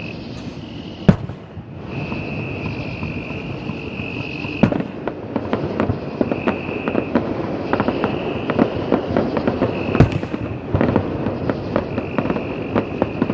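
Fireworks display: sharp bangs of bursting shells, three of them louder than the rest, with a dense crackle of many small bursts building from about five seconds in.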